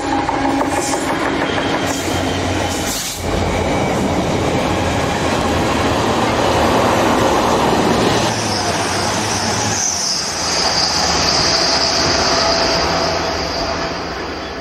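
Class 66 diesel freight trains with their wagons rumbling along the rails. A high, steady squeal joins about eight seconds in.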